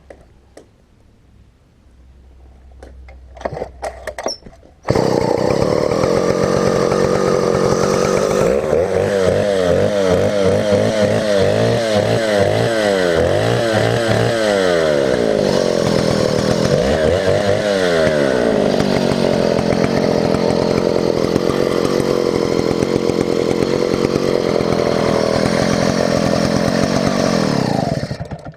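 Chinese-made clone of a Stihl 070 two-stroke chainsaw: after a few short rattles, the engine catches about five seconds in and runs loudly, revved up and down repeatedly for several seconds, then settles to a steady run before cutting off suddenly near the end.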